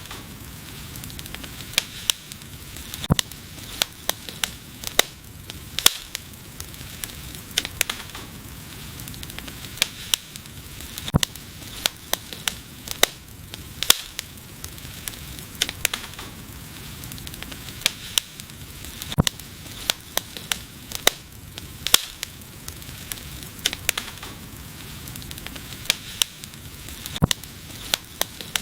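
Wood fire burning: a steady low hiss and rumble of flames with frequent sharp, irregular crackles and pops from the burning logs.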